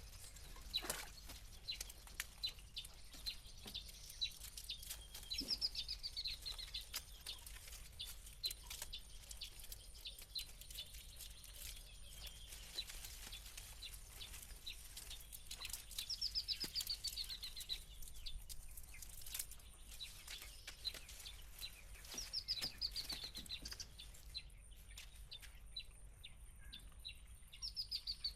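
A bird singing a short, high, falling trill of rapid notes, repeated about every six seconds, over scattered faint clicks and ticks.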